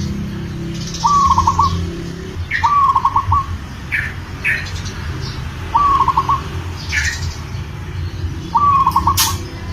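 Zebra dove (perkutut) cooing in breeding condition to call a female. Four short calls come a few seconds apart, each a held note breaking into a quick run of pulses. Brief high chirps from other small birds fall between the calls.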